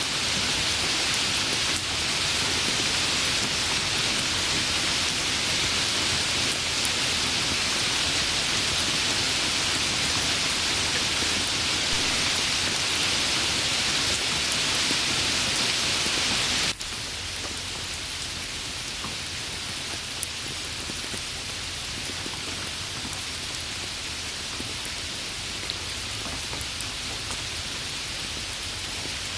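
Steady rain falling. About two-thirds of the way through it cuts abruptly to softer, lighter rain, with a few separate drops standing out.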